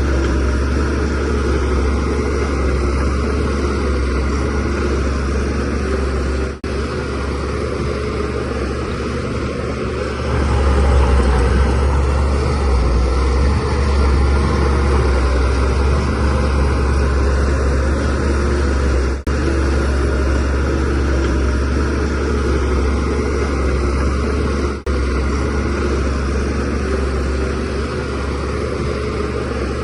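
DH17C3 crawler bulldozer's diesel engine running steadily under load with a deep low hum, growing louder for several seconds about a third of the way through. The sound drops out briefly three times.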